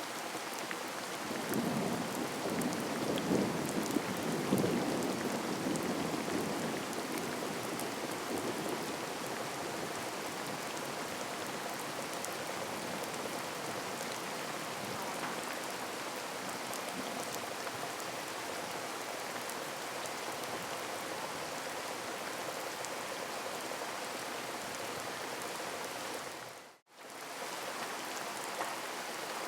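Heavy rain falling steadily, with a low rumble of distant thunder swelling and fading over the first several seconds. Near the end the sound cuts out for an instant and comes straight back, like a splice in the recording.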